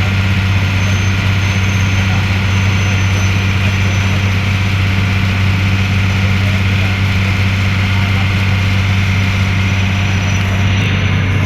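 Ferry's diesel engine running steadily: a constant low drone with a strong hum and a noisy wash above it.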